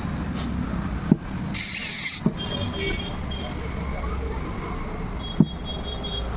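Three sharp clicks or knocks, the loudest events, over a steady background rumble like street traffic, with a short hiss about one and a half seconds in.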